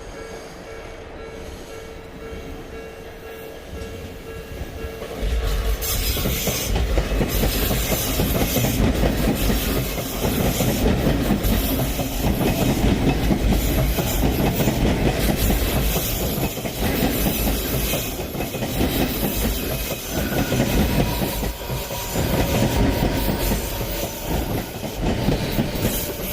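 Odakyu Romancecar MSE 60000-series electric train passing a level crossing at high speed: a heavy running sound of wheels and motors that sets in abruptly about five seconds in and carries on for some twenty seconds. Before it arrives, the crossing alarm's steady warning tone is heard.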